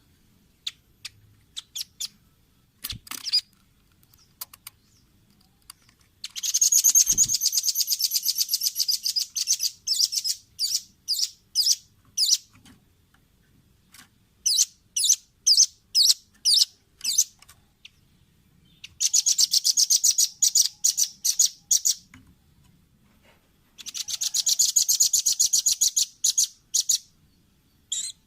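Velvet-fronted nuthatch calling: three high-pitched rapid trills of a few seconds each, each loosening into separate sharp notes, with spaced single chips between them.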